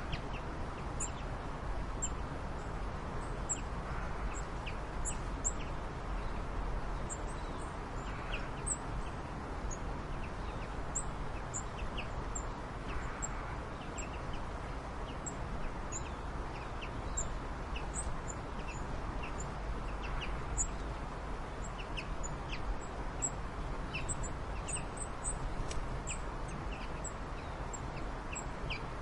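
Birds chirping: many short, high chirps scattered throughout over a steady low rumble.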